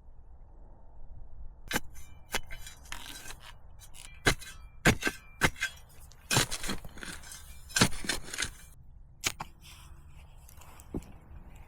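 Irregular sharp cracks and snaps of dry wood, about a dozen loud ones with scraping and rustling between them, thinning out to a few scattered clicks near the end.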